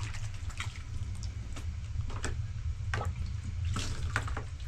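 Water splashing and dripping in irregular drops and small splashes, over a steady low hum.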